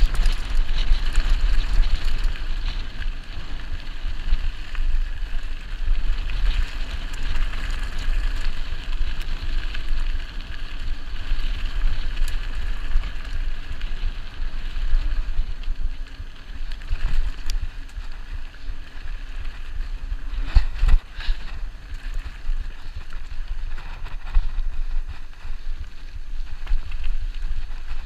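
Wind buffeting the microphone in gusts, over a steady rushing hiss, with a few brief knocks about two-thirds of the way in.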